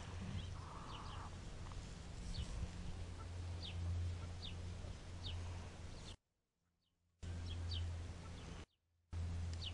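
Scattered short, high bird chirps, each falling quickly in pitch, over a steady low rumble. The sound drops out completely twice in the second half.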